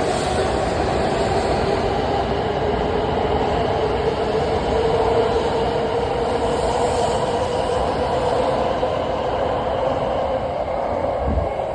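Hokuriku Shinkansen train running out of Kanazawa Station on an out-of-service departure: a steady rumble of wheels and running gear with a humming tone that slowly falls in pitch.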